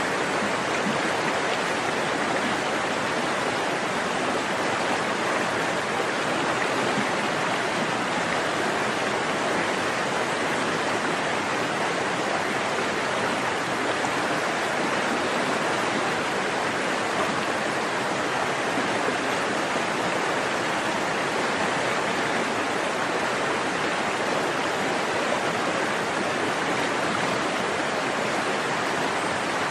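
Forest creek flowing: a steady, even rush of water with no breaks or changes.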